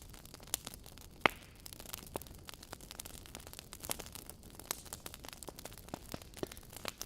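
Wood fire crackling: irregular sharp pops and snaps over a soft hiss, the loudest snap about a second in.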